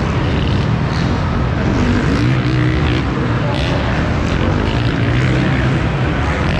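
Small two-stroke KTM 50 SX motocross bike engine heard from the bike's on-board camera, running hard and revving up and down.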